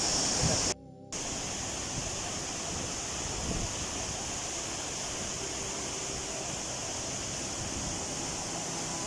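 Waterfall: a steady rush of falling water. It cuts out briefly under a second in, then carries on a little quieter.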